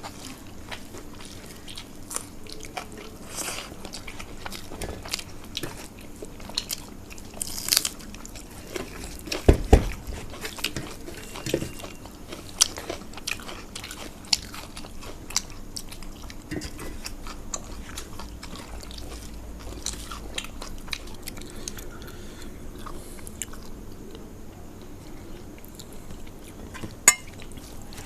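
A person chewing and crunching food close to the microphone, with many small wet clicks. There is a louder low thump about ten seconds in and a sharp click near the end.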